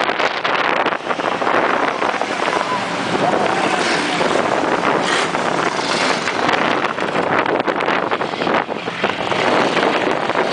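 A field of big-car (sprint-style) race cars running at racing speed together at the start of a race, a dense, steady engine din, with wind noise on the microphone.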